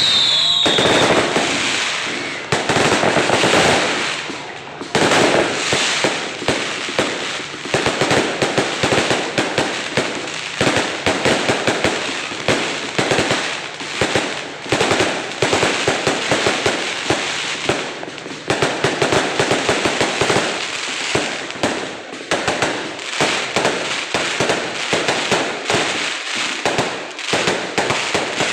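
A 600-shot fireworks cake firing continuously, with many bangs and crackles a second in an unbroken stream. A short falling whistle comes right at the start.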